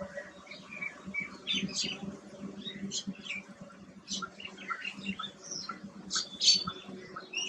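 Small birds chirping: many short, high chirps at irregular intervals, several birds overlapping, over a faint steady low hum.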